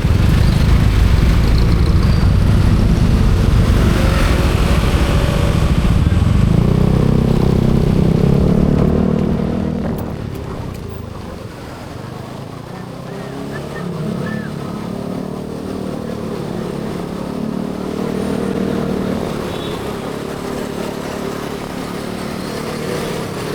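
Motorcycle running on the road, its engine mixed with wind rush on the microphone. Loudest for the first nine seconds, it eases off about ten seconds in, after which the engine note drifts up and down.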